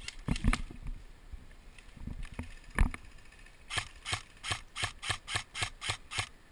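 Airsoft gun firing: a few single shots, then from a little past halfway a fast, even string of sharp clicking shots, about four or five a second.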